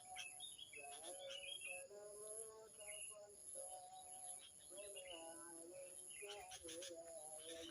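Faint, repeated bird calls: short whistled notes and quick chirps of sooty-headed bulbuls (kutilang), the birds being lured.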